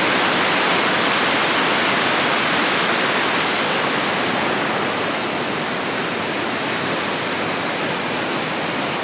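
River rapids rushing, a loud steady wash of fast white water swirling over and around rocks.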